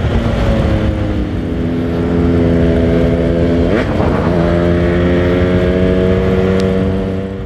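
Yamaha RX-King 135cc two-stroke single-cylinder motorcycle engine idling steadily, with one quick throttle blip about four seconds in that rises and drops back in pitch.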